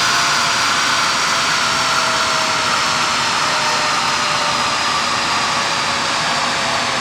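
Ferrari 458 Spider's V8 running on a chassis dyno, loud and steady, with a faint tone that falls slowly in pitch as the car and rollers wind down.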